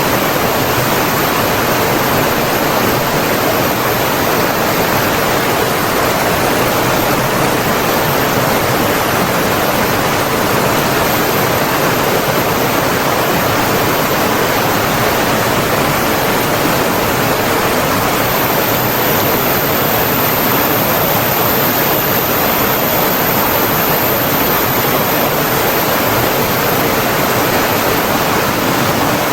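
Running water rushing steadily: a loud, even hiss and rumble of flowing water with no breaks or changes.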